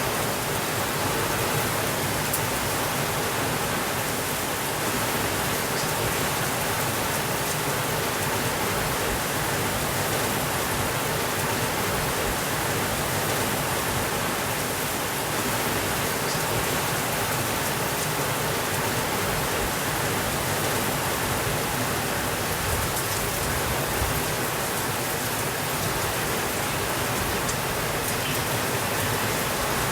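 Steady rainfall: an even, unbroken hiss of rain with a few faint ticks scattered through it.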